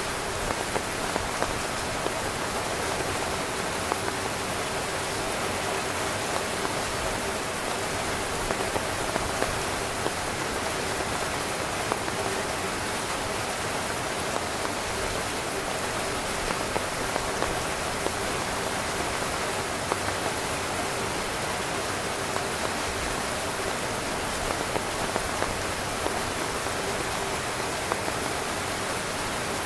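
Heavy rain falling steadily on a camping tent, a dense even patter with scattered louder drops striking the fabric.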